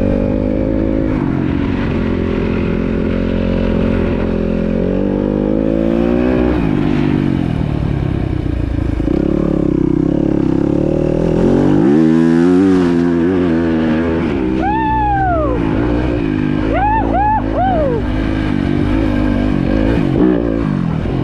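Dirt bike engine running under changing throttle as it is ridden along a trail, its pitch rising and falling with the revs. It climbs steadily about halfway through, and there are several quick rev blips from about three quarters of the way in.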